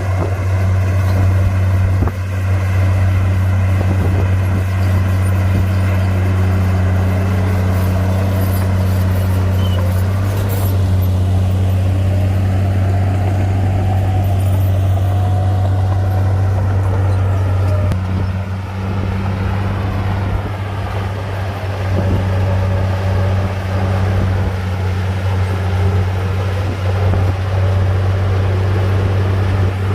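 Bulldozer's heavy diesel engine running steadily at work, a deep unbroken drone, with faint whines rising and falling above it.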